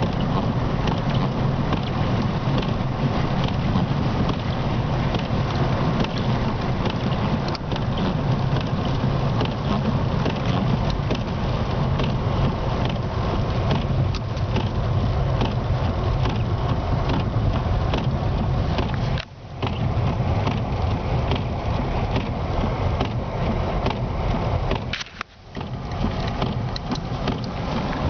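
Steady road and engine rumble with wind noise inside a car driving through a heavy snowstorm. The sound drops out briefly twice, about two-thirds of the way through and again about six seconds later.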